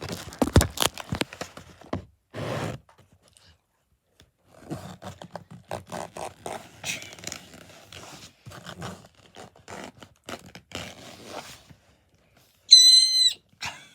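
A string of deliberately made unpleasant noises: irregular clicking and scraping, a short rasp, then a loud high-pitched squeal lasting about half a second near the end.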